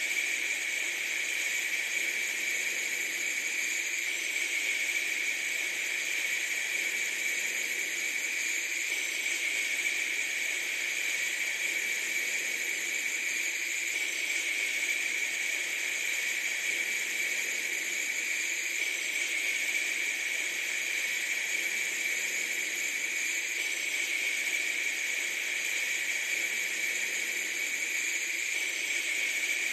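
A steady, unchanging hiss, strongest in a high band, with no low rumble and no breaks.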